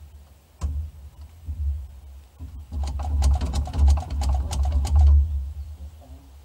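A 1977 Jeep Cherokee's starter motor cranking the engine in a rapid clicking whirr for about two and a half seconds, starting a little under three seconds in, then stopping without the engine catching.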